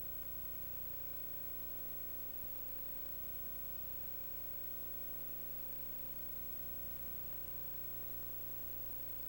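Steady hiss with an electrical hum and a faint constant tone, unchanging throughout, with no distinct events.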